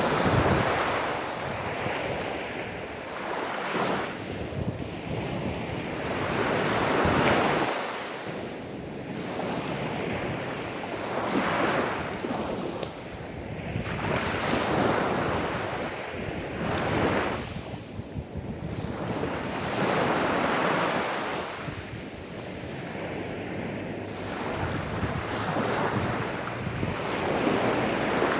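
Gentle sea waves breaking and washing up onto a sandy beach, one after another, each swell of hiss rising and falling every two to three seconds.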